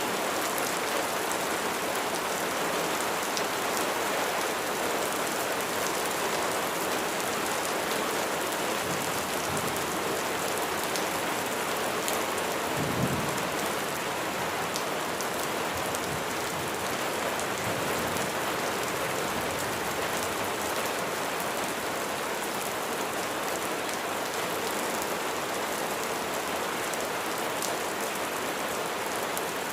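Steady rain falling and pattering on surfaces, with a brief low rumble about halfway through.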